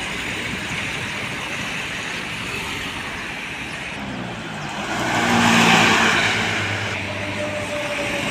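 A motor vehicle passes by on a road, its engine and tyre noise swelling a little after halfway and then fading, over steady traffic noise.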